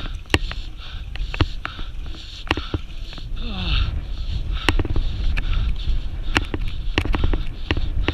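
Irregular sharp knocks and clicks over a steady low rumbling noise, with a short falling vocal cry about three and a half seconds in.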